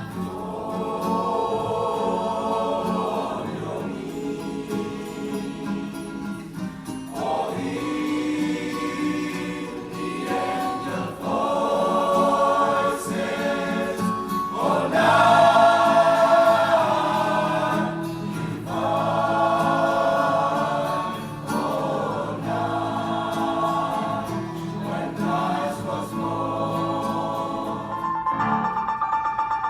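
A choir singing, holding sustained chords in phrases a few seconds long with short breaths between them.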